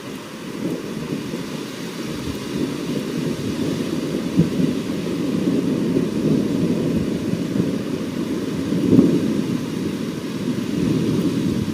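Long rolling rumble of thunder that builds up, swells to louder peaks about four and nine seconds in, and falls away near the end.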